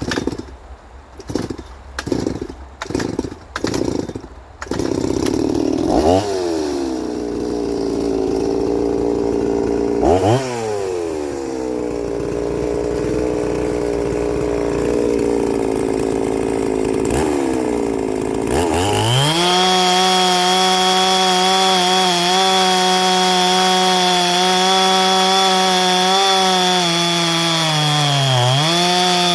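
Ported two-stroke chainsaw warming up. A few short bursts, then it catches and runs, revved up and down twice. About 19 s in it is opened up to a high, steady full-throttle scream, with a brief dip in revs near the end.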